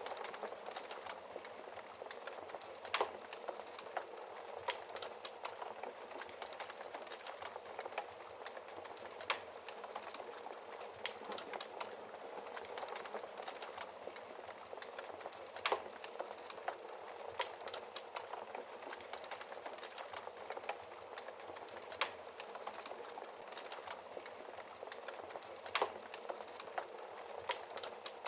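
Wood fire burning in a fireplace: a steady hiss with frequent small crackles and a louder pop every few seconds.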